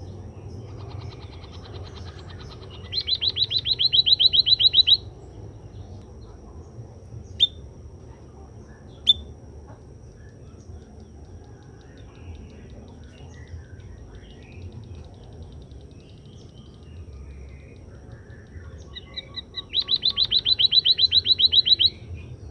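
White-headed munia (emprit kaji) singing: two rapid trills of about ten high notes a second, each growing louder and lasting about two seconds, one a few seconds in and one near the end. Two single sharp chirps come in between.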